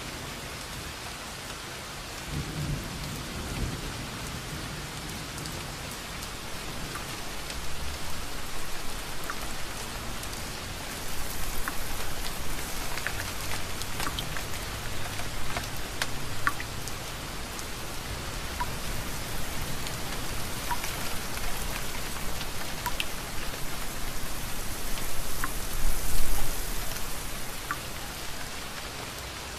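Steady rain falling, with scattered louder drops ticking, and low thunder rumbling several times, loudest near the end.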